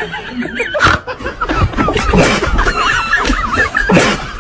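Many short bird calls over one another, with two sharp knocks, one about a second in and one near the end.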